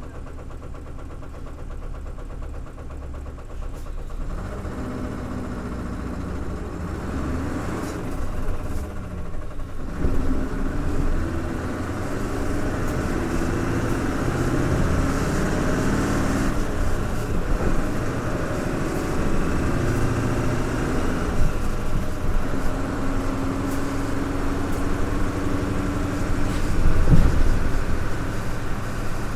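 Isuzu KL-LV280L1 city bus's V8 diesel engine, running quietly at first, then pulling away about four seconds in, its note climbing and dropping again and again through the gear changes before holding steady for a while. A single sharp knock comes near the end.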